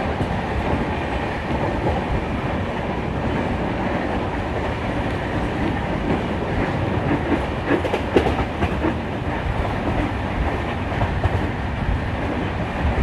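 Goa Express train running, heard from inside a sleeper coach: a steady rumble with the wheels clicking over rail joints, a few sharper clicks past the middle.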